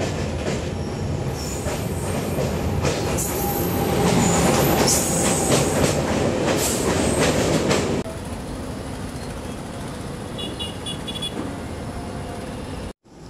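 Indian Railways express train running, its wheels rumbling and clattering over the rail joints. It grows louder about three seconds in, with a dense rush of clatter as the coaches of a train on the next track pass close by, then drops suddenly to a quieter steady rumble about eight seconds in.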